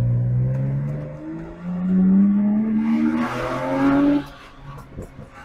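BMW 128i's N52 3.0-litre straight-six accelerating hard, heard from inside the cabin: its note climbs steadily in pitch for about four seconds, then the throttle closes and the sound falls away.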